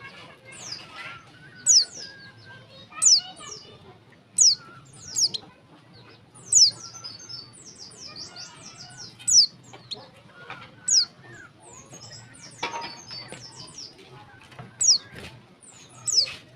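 Female white-eye (pleci) calling: sharp, high, downward-slurred chirps repeated about every one to two seconds, with fainter twittering chirps in between.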